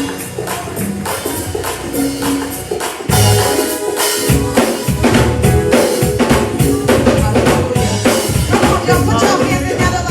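Live gospel praise-band music with tambourine; drum kit and bass come in about three seconds in and carry a steady beat.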